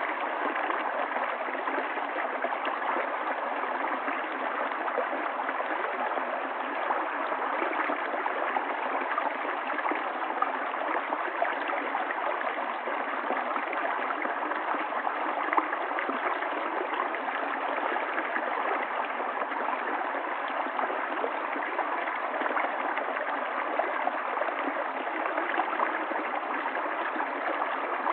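Water flowing down a valley stream, a steady, unbroken rush of running water.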